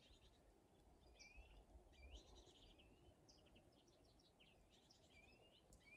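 Near silence outdoors, with faint scattered bird chirps and short whistled sweeps.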